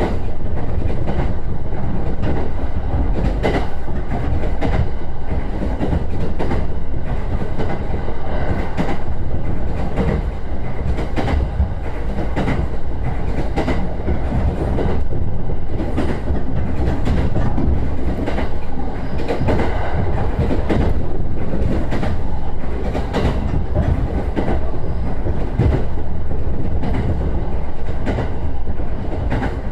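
JR East E129 series electric train running along the track: a steady low rumble with repeated clicks of the wheels passing over rail joints.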